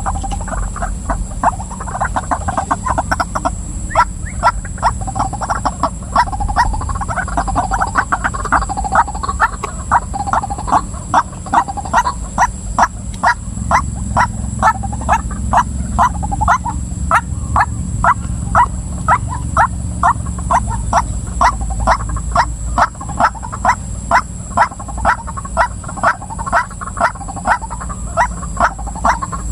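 Female white-breasted waterhen calling: uneven, gurgling croaks at first, then from about halfway a steady run of repeated notes about twice a second. A steady low hum runs underneath.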